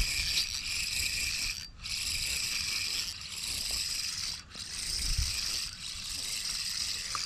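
Abu Garcia Revo X 1000 spinning reel being cranked, its gears whirring in runs of a couple of seconds that stop sharply twice as line is retrieved in bursts.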